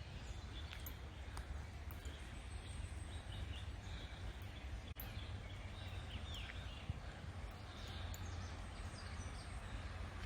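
Woodland ambience: a steady low rumble of breeze on the microphone, with faint scattered bird chirps and a few small clicks.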